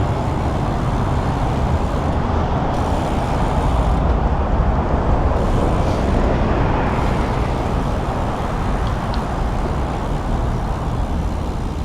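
Steady rush of wind and road noise on the action camera's microphone while riding a bicycle, with no distinct events standing out.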